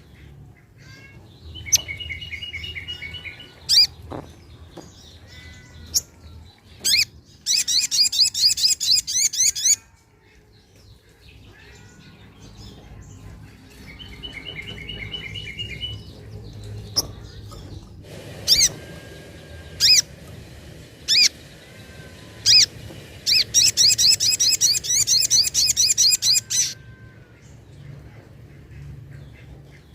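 Little spiderhunter (sogok ontong) singing: sharp single high notes, two long bursts of fast high trills, and runs of short two-pitched chirps.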